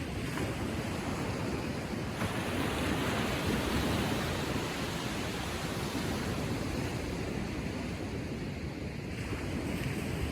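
Small ocean waves lapping gently on the shore, a continuous wash of surf that swells about two seconds in and eases near nine seconds.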